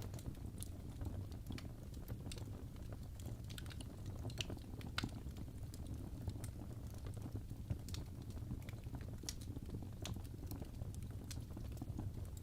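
Wood fire burning in a fireplace: a low steady rumble of flames with irregular sharp crackles and pops from the burning logs, a few louder pops scattered through.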